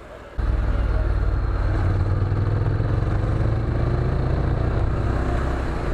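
Motorcycle engine and exhaust running loud and close, cutting in abruptly about half a second in, with a rapid low pulse and a pitch that rises slowly as it pulls along.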